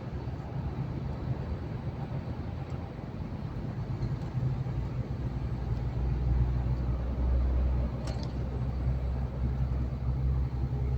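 Lorry engine and tyre noise while driving: a steady low drone that grows louder about halfway through, with a short click near the end.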